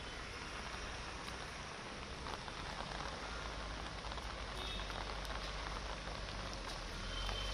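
Heavy monsoon rain falling on hard surfaces: a steady hiss dotted with the ticks of single drops, with a low rumble underneath.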